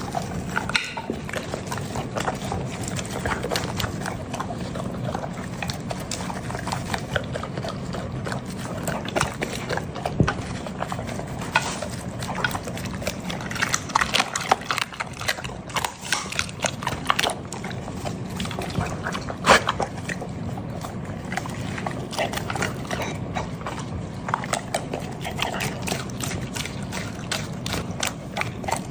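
A chocolate Labrador eating a raw meal of bone-in meat: wet chewing and crunching with frequent irregular sharp cracks, the loudest a little after the middle.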